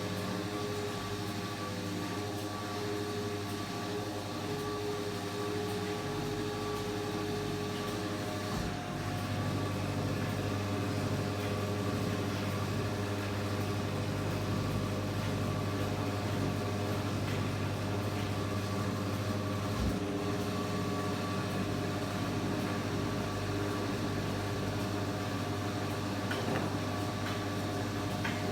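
Washing machine running with a steady low motor hum and a few fixed tones over it, and a faint knock now and then.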